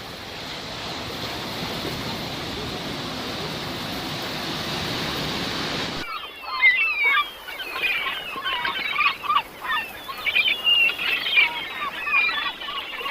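Sea waves washing on a shore as a steady rush, which cuts off abruptly about six seconds in and gives way to a flock of gulls calling over and over in short, overlapping cries.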